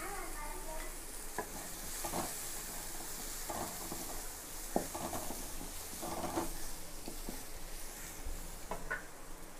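Chopped onions, garlic and ginger sizzling in hot oil in a pan as they are sautéed, with a wooden spatula stirring and scraping across the pan in short strokes and one sharp tap about halfway through.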